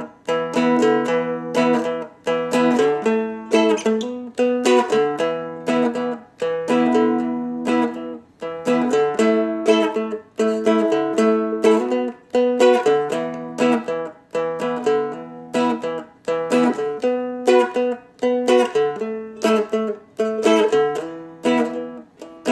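A Seagull Merlin, a small fretted dulcimer-style instrument, strummed slowly and steadily through a 12-bar-based blues progression on E, A and B chords, with hammer-ons on the top string.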